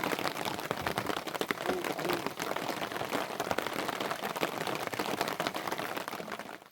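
Steady rain, many close drops pattering on surfaces, that cuts off abruptly just before the end.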